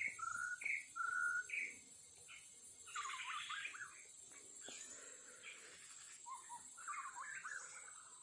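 Songbird singing: a clear two-note whistle repeated about four times, then bursts of rapid warbling.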